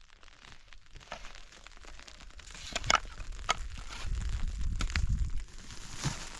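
A few scattered sharp cracks and crunches, with a low rumble coming in about four seconds in.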